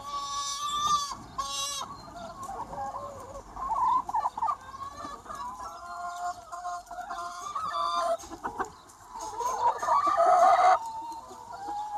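A large flock of free-range chickens clucking and calling over one another, with one longer, louder drawn-out call near the end that stops abruptly.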